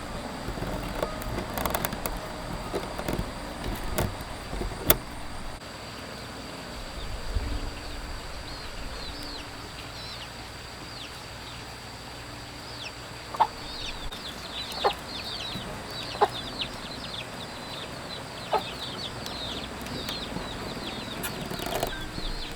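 Chickens, most likely young chicks, peeping in a rapid string of short, high, falling chirps through the middle and later part, with a few sharp knocks among them and clicking and rustling in the first few seconds.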